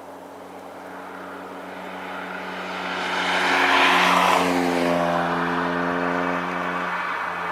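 Jet airliner passing low overhead: its engine noise swells to a peak about four seconds in, then its engine tones drop in pitch as it moves away.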